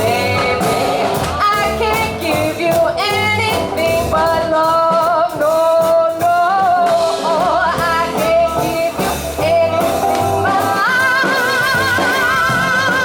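Live swing jazz band with a female singer, her voice wavering with vibrato over drums; near the end she holds one long vibrato note.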